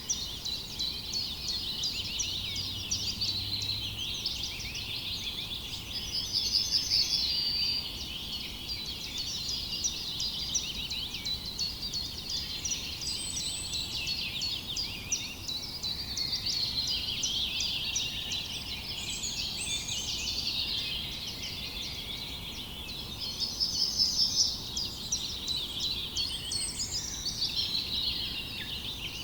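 A dense chorus of many small birds chirping and singing at once. A louder, rapid trill stands out twice, about a quarter of the way in and again near the end.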